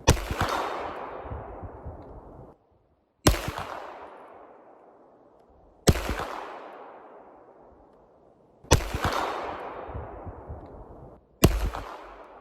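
Heckler & Koch VP9 9mm pistol firing five single shots a few seconds apart, each followed by a long echo that fades over about two seconds.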